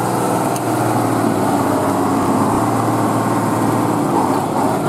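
Off-road trial truck's engine running loudly and steadily.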